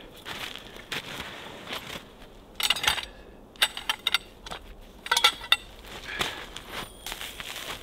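Metal tent poles clinking and clattering against each other as they are picked out of a bundle and handled. They come in a few clusters of sharp metallic knocks, loudest about five seconds in.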